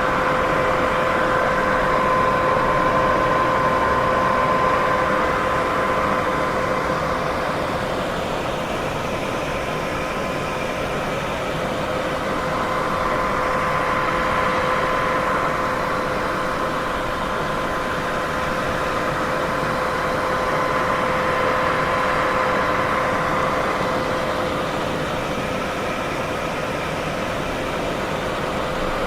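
Steady white noise, a continuous hiss that swells and eases gently every several seconds, with a faint steady hum underneath.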